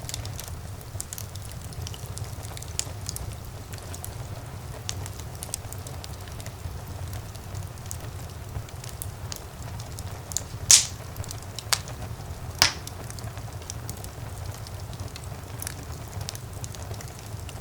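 Fire crackling in a fireplace: a steady low rumble of flames under frequent small crackles, with a few sharp pops a little after ten seconds in, the loudest first.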